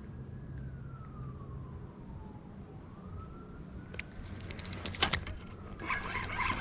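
A distant siren wailing, its pitch slowly rising and falling. Near the end come a few sharp knocks and a burst of clatter.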